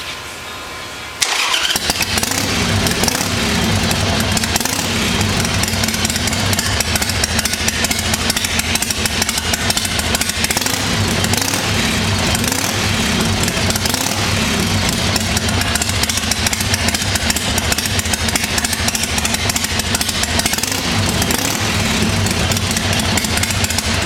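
Harley-Davidson Sportster XLH883's air-cooled V-twin engine firing up suddenly about a second in, then running loud and continuously with a pulsing beat whose pitch wavers a little.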